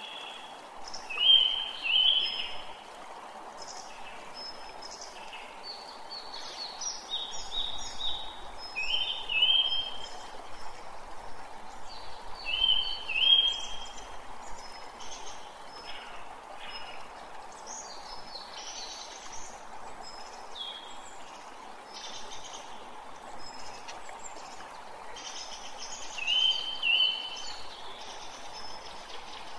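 Wild birds calling: a loud two-note chirp comes back several times, with higher, shorter chirps between. Under them is a steady rush of running stream water.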